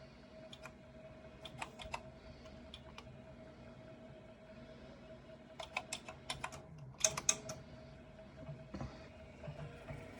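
Keystrokes on the Kontur 8020 computer's keyboard: a few scattered key presses, then a quicker run of keys about halfway through, loudest around two thirds of the way in. A steady faint tone runs underneath.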